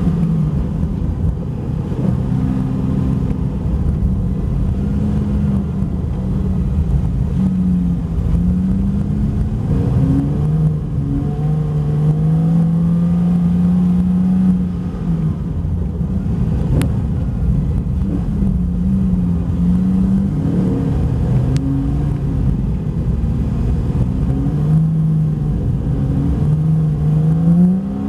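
Porsche 911 Carrera 4S (991) 3.8-litre flat-six running at around 4,000 rpm while drifting on ice, its note repeatedly rising and falling as the throttle is worked. There is a steady low rumble underneath.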